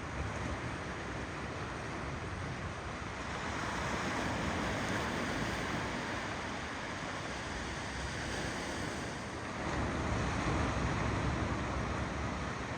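Ocean waves rolling in and washing on the shore, a steady rush of surf that swells louder about four seconds in and again about ten seconds in.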